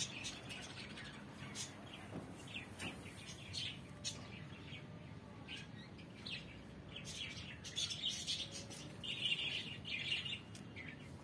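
Small birds chirping in short, scattered calls, which come thicker and louder for a few seconds about two-thirds of the way through.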